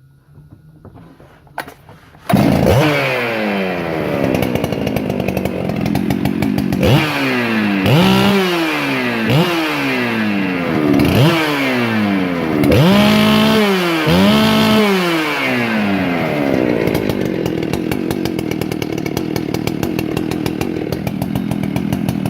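Big 395 chainsaw with a ported engine, custom exhaust and altered ignition timing starting up about two seconds in. It is revved hard in a string of quick blips, then settles into steady running.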